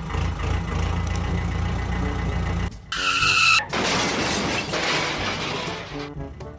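Vehicle engine running steadily, then a short high squeal about three seconds in, followed by about two seconds of skidding noise.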